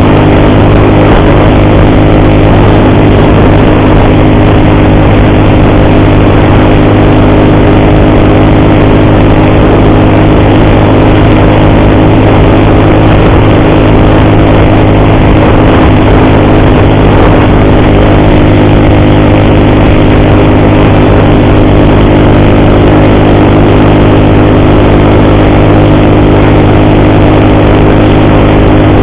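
Motorcycle engine running at a steady, unchanging speed while riding, with no revving. The rider hears an ugly noise in it that he puts down to the cam chain.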